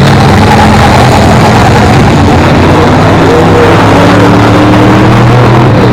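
Several race car engines running at once, very loud, with one slowly rising in pitch as it revs up.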